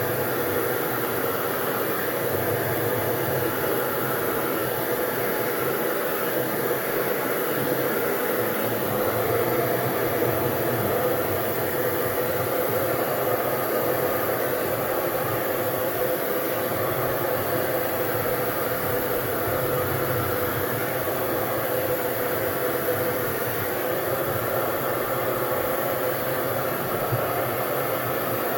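Hair dryer running steadily, blowing air over wet paint on a canvas.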